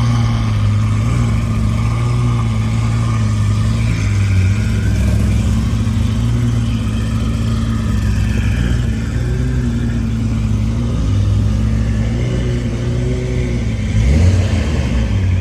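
A car engine running steadily with a low hum whose pitch wavers gently with the throttle, and a short rising rev near the end.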